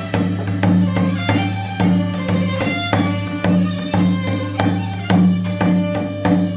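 Live ensemble music in a Korean traditional style: a bowed string melody over a steady low drone, with sharp percussive strikes on a regular beat of about two a second.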